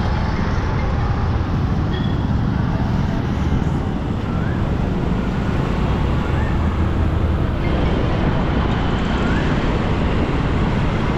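Steady city road traffic and the rumble of a moving vehicle, with a few faint short rising chirps over it.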